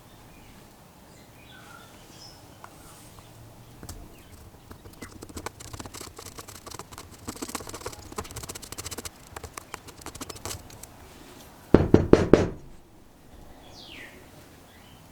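Workshop hand-work on carburetor parts: a run of small clicks and scraping for several seconds, then a quick burst of about five loud knocks. Birds chirp faintly in the background.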